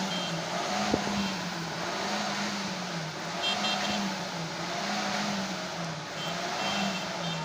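Truck engine revving up and down over and over, its pitch rising and falling about once a second, with a steady rushing noise underneath.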